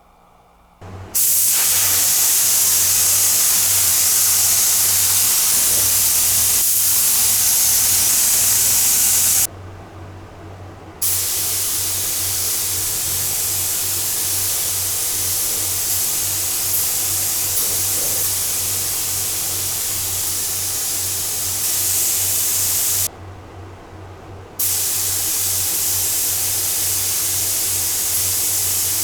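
Paint sprayer hissing in long steady blasts, cutting off twice for about a second and a half, over a low steady hum.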